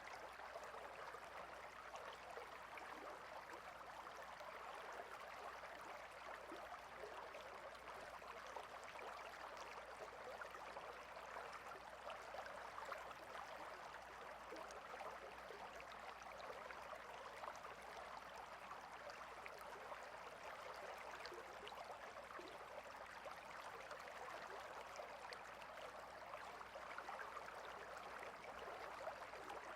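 A small stream flowing steadily, with a continuous fine babble of water over stones; faint and unchanging.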